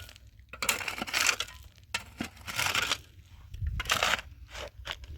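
Irregular crunching and scraping noises, a run of short rough bursts, like material being handled or broken.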